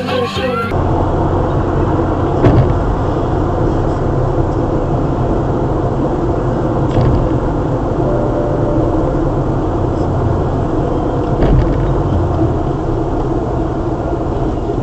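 Steady engine and road noise of a vehicle driving, with a few faint ticks.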